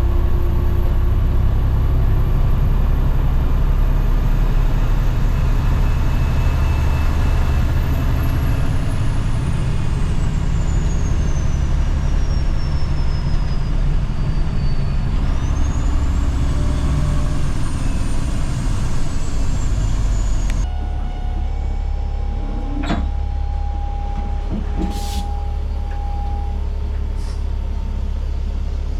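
Kenworth T800 truck's diesel engine running on the road while pulling a lowboy trailer loaded with an excavator: a steady low rumble. About two-thirds of the way through the sound changes abruptly, and a few sharp clicks follow.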